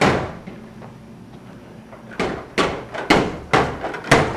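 Repeated sharp knocks and bangs from a toddler banging on something hard. There is one bang at the start, then after a pause of about two seconds a run of about six knocks, roughly two a second.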